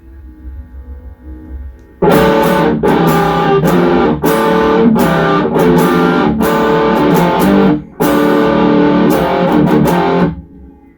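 Electric guitar played through an MXR Super Badass Distortion pedal: after about two seconds of low amp hum, loud distorted chords and riffs come in, break off briefly about two-thirds of the way through, then stop shortly before the end, leaving the hum.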